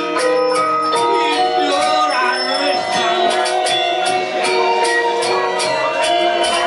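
Balinese gamelan music: bronze metallophones ringing in sustained, interlocking notes over a steady beat of sharp metallic strikes, about three a second.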